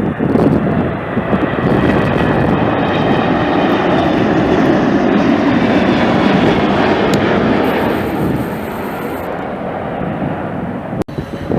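Jet airliner flying past, a loud steady rush of engine noise with a faint whine sliding in pitch, easing off a little toward the end.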